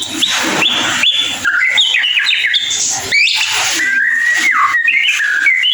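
White-rumped shama (murai batu) singing: a fast, varied run of short whistled notes, chirps and sliding notes with no pauses.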